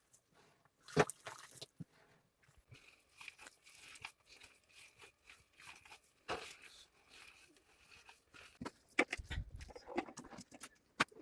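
Intermittent crunching and crackling with scattered clicks and knocks, the loudest about a second in and again near the end, under a faint high whine in the middle.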